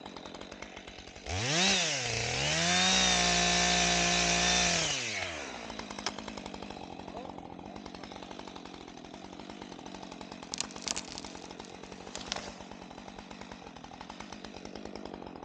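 Chainsaw idling, then revved up, dipping briefly and revved again to a steady high pitch for about two and a half seconds before falling back to a fast-ticking idle. A few sharp clicks come through the idle about two thirds of the way in.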